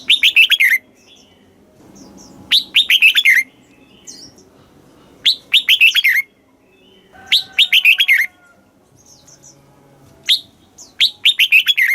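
Red-whiskered bulbul singing: a short, loud phrase of quick falling whistled notes, repeated five times about every two and a half seconds, with faint softer chirps in between.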